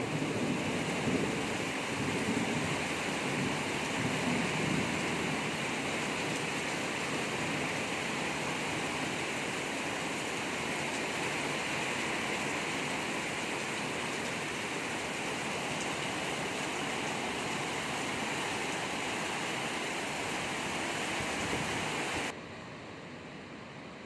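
Heavy storm rain pouring down in a steady rushing hiss, with the tail of a thunder rumble fading over the first few seconds. The sound drops abruptly to a quieter hiss about 22 seconds in.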